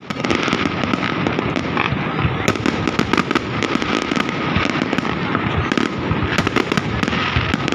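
Fireworks display going off without a break: a dense run of many bangs, pops and crackles overlapping one another.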